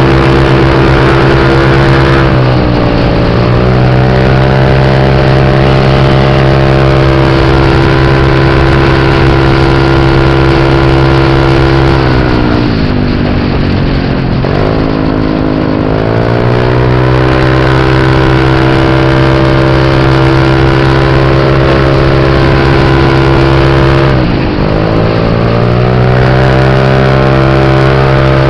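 Scooter engine running hard at a steady high rev under way, its note held level. Three times the revs dip and climb back up: briefly about two seconds in, for a longer stretch about halfway, and briefly near the end.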